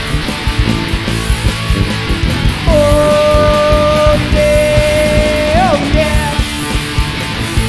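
Live rock band playing an instrumental passage: electric guitar, bass and drums, with a long held high note in the middle that bends up and falls away.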